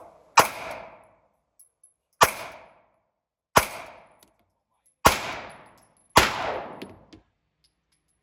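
Five gunshots fired one at a time, one to two seconds apart, each ringing out briefly after the crack.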